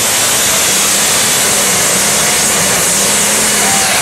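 Competition pulling tractor's engine running flat out during a pull down the track: loud and steady, with a constant low hum under a wide rushing noise.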